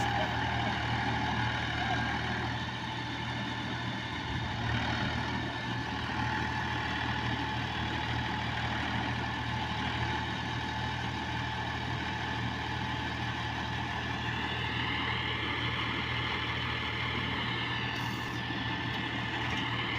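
Tractor diesel engines running steadily during a tow of a stuck tractor, with a slight rise in pitch about fourteen seconds in.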